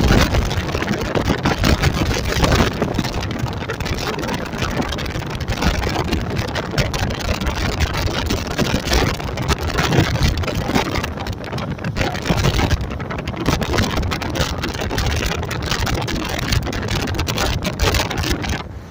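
A car driving along the highway, with loud road and wind noise on the microphone that flutters and gusts throughout. The noise drops off sharply at the very end.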